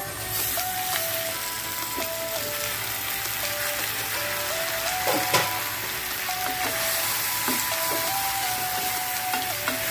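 Squid sizzling as it hits hot oil and sautéed aromatics in an aluminium pot, then stirred with a wooden spatula, with a sharp knock about five seconds in. Background music plays over it.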